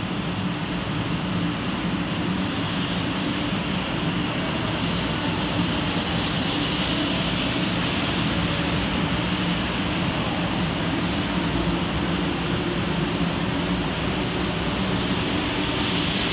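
500-series Hello Kitty Shinkansen pulling out of the platform and gathering speed: a steady low hum under the rushing noise of the cars going by, the hiss growing stronger from about halfway through.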